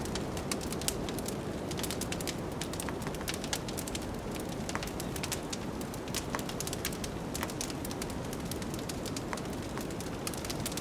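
Wood fire crackling in a fireplace, with many irregular sharp pops, over a steady low rush of blizzard wind.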